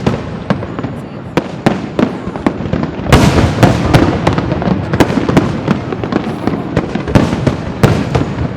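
Aerial fireworks bursting in rapid succession: a steady run of sharp bangs and crackles that thickens into a dense, louder barrage about three seconds in.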